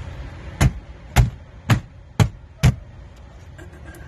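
Five sharp knocks about half a second apart: a hand striking the plastic passenger-side dash panel of a Freightliner Cascadia cab to seat it back into its clips.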